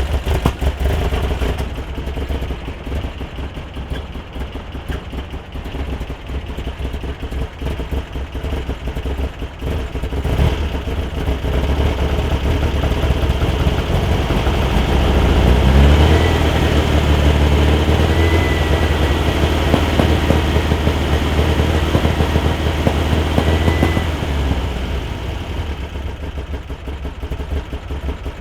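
Volkswagen Super Beetle's 1641cc air-cooled flat-four, breathing through an equal-length merged header and single quiet-pack muffler, idling, then revved up about halfway through, held at higher speed for several seconds and let back down to idle near the end. The warm engine has a noise that sounds like pre-detonation at cylinder three but does not change with ignition timing; its cause is unknown to the owner.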